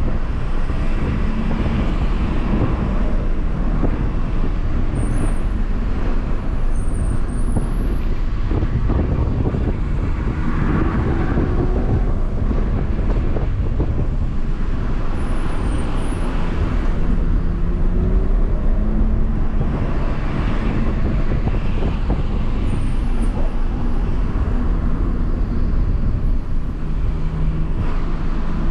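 BMW M140i's turbocharged 3.0-litre straight-six, heard from inside the cabin, pulling up through the revs and easing off as the car is driven briskly along a winding road, over a constant rumble of tyre and road noise.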